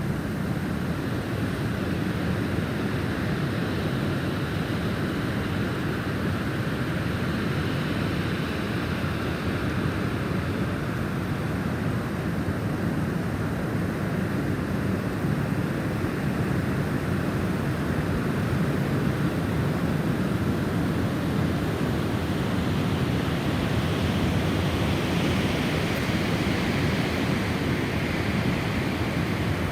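Snowstorm wind blowing steadily, with a thin whistling tone that slowly drifts up and down in pitch and swells a little in the last few seconds.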